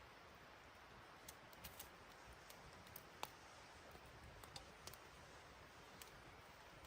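Near silence with faint, scattered sharp clicks and ticks at irregular intervals, one a little louder about three seconds in.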